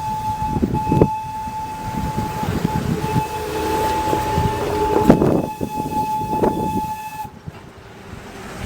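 Diesel locomotive air horn sounding in long blasts with brief breaks, the last blast held several seconds and cutting off about seven seconds in. Under the horn is the rumble and clatter of the passing train.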